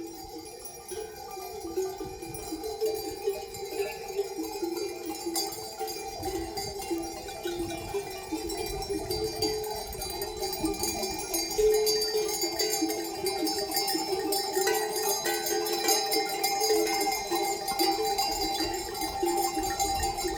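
Many neck bells on a flock of sheep jangling and clanking continuously and irregularly as the animals move and graze.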